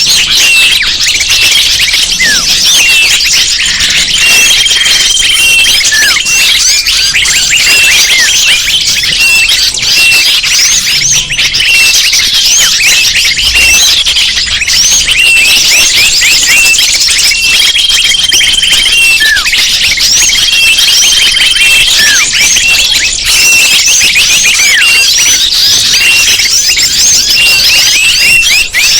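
Dense, continuous chorus of many small birds chirping and twittering at once, with short level whistles recurring every few seconds. It is a bird-lure (suara pikat) recording played to attract wild birds.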